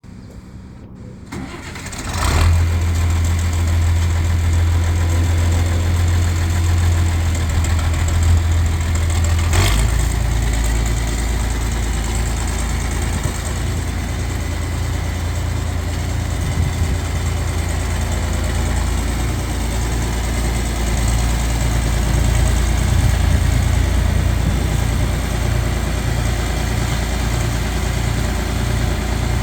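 1964 John Deere 4010 tractor's six-cylinder engine starting about two seconds in and running steadily. About ten seconds in, a sharp click comes and the engine note drops lower and settles into a steady idle.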